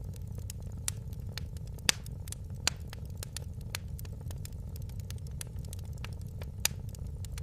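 Wood fire crackling in a fireplace: scattered sharp pops and snaps over a steady low rumble, the loudest pop about two seconds in and another strong one near the end.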